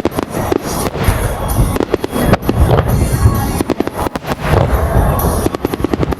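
Firework shells bursting in a rapid volley, many sharp bangs close together with crackling and a low rumble, over music.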